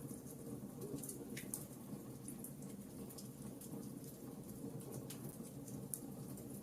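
Wood fire burning in a fireplace: a steady low rumble of the flames with scattered small crackles and pops from the logs, two or three a second.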